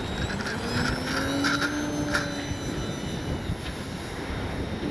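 Electric RC plane's brushless motor and propeller whining up in pitch as the throttle opens for takeoff, then holding steady and fading out about halfway through, over heavy wind rumble on the microphone.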